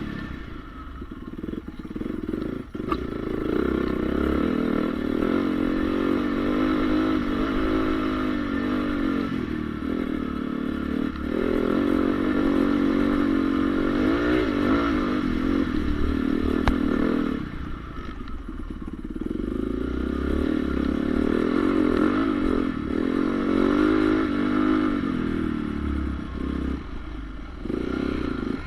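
Honda CRF450R motocross bike's single-cylinder four-stroke engine revving up and falling back again and again as the throttle is worked. A few times it drops to a quieter lull before pulling hard again.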